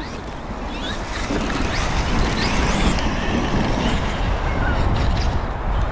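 Electric motors of Traxxas Maxx and X-Maxx RC monster trucks whining, rising and falling in pitch as the trucks race, with wind rumbling on the microphone.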